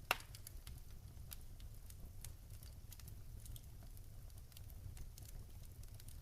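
Wood fire crackling in a fireplace: scattered sharp snaps over a steady low rumble, with one loud pop just after the start.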